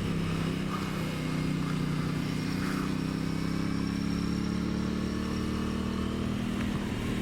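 Aprilia Tuono 660's parallel-twin engine running under way at a fairly steady pitch, with wind rush over it.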